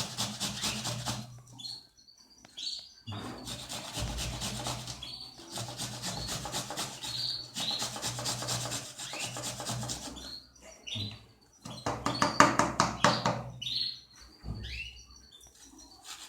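An onion being grated by hand on the fine side of a metal grater: quick, rhythmic rasping strokes in several runs with short pauses between them. Short bird chirps sound in the pauses.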